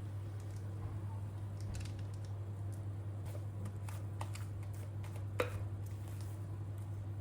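Scattered light clicks and taps of kitchen work, with one sharper tap about five seconds in, over a steady low hum.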